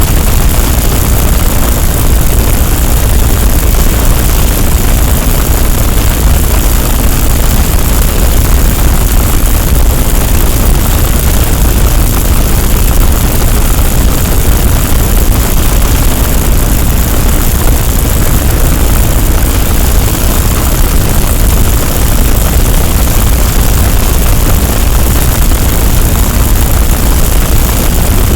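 A loud, unchanging wall of dense noise covering every pitch, heaviest in a deep rumble at the bottom, with no breaks or separate events.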